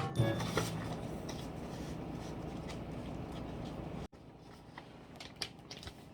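Paper being handled, rustling and crinkling steadily. It cuts off suddenly about four seconds in, leaving a quieter stretch with a few light clicks.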